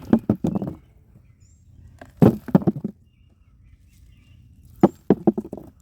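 Three short bursts of crunching, scraping knocks from digging red potatoes out of mulch and soil, each a quick run of several strokes.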